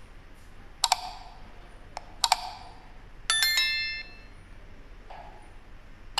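A few sharp clicks, then a short ringing chime of several tones starting one after another and dying away within a second.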